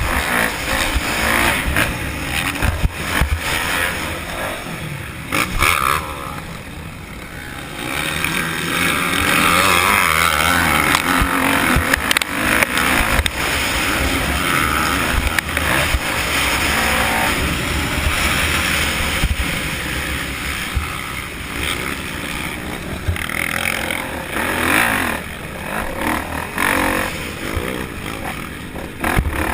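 Motocross dirt bike engines running and revving, the pitch rising and falling with the throttle and the sound dipping briefly about six seconds in.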